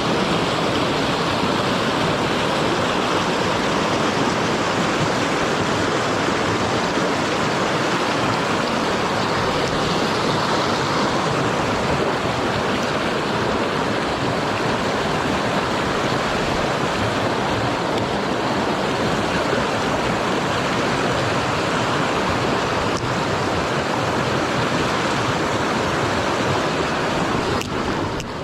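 Mountain stream water rushing, a steady loud flow with no break.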